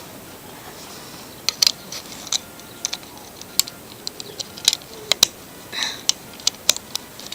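Plastic LEGO bricks clicking and clattering as pieces are handled and pressed together: an irregular run of sharp clicks starting about a second and a half in.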